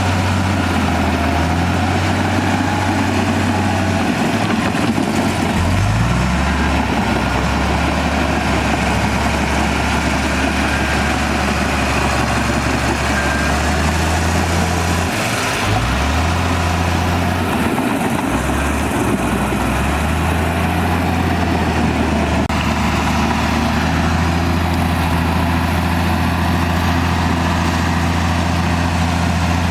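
Komatsu D58E bulldozer's diesel engine running steadily, its pitch dipping and recovering a few times as the load on it changes.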